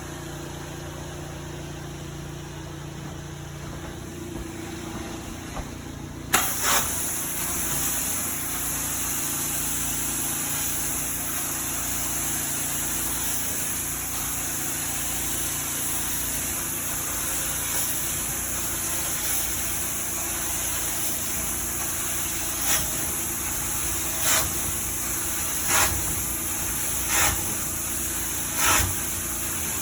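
Carpet-cleaning machine running with a steady motor hum; about six seconds in, a loud rushing hiss of vacuum suction cuts in and carries on, with short sharp swishes about every second and a half near the end.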